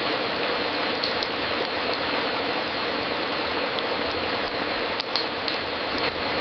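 Fireplace crackling: a steady hiss with scattered sharp pops, a couple about a second in and a cluster about five seconds in.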